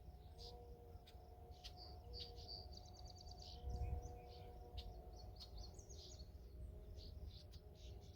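Small birds chirping faintly, with a quick run of evenly spaced notes about three seconds in, over a faint steady low hum.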